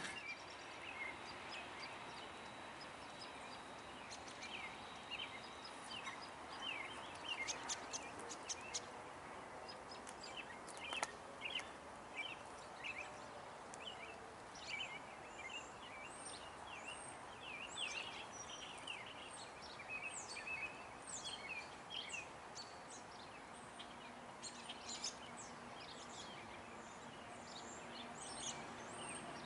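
Small birds chirping in short, repeated calls over quiet background noise, with a faint low hum coming in near the end.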